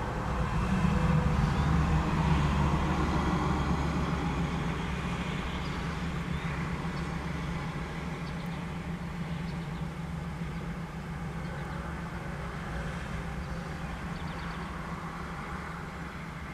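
GE diesel locomotives running under load at the head of a heavy loaded ore train, a steady low drone with rail rumble. It is loudest in the first few seconds and slowly fades as the train rolls on.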